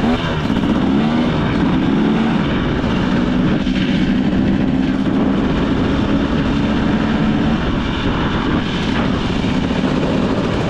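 2025 KTM 300 XC two-stroke dirt bike engine running at a steady pace under way, with a constant rush of noise over it.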